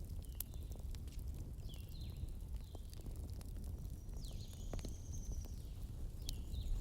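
Wood fire crackling in a fireplace: scattered sharp pops and snaps over a steady low rumble of the flames, with several short high falling chirps and a longer high whistle about four seconds in.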